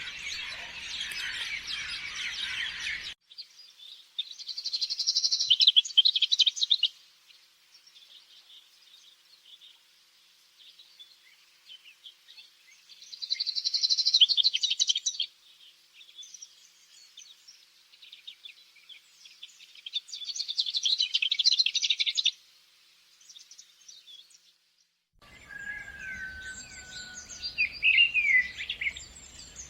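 Birds singing: a dense high chorus that cuts off abruptly about three seconds in, then rapid high trills in three loud bursts of about two seconds each over faint continuous twittering. Near the end a different stretch follows, with whistled calls that glide up and down.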